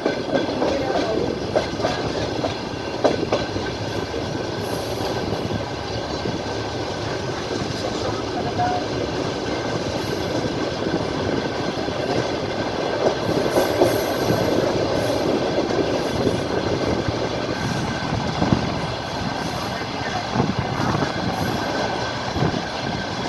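Clickety-clack of train wheels passing over rail joints, heard inside a moving passenger train carriage at the window, over a steady running rumble.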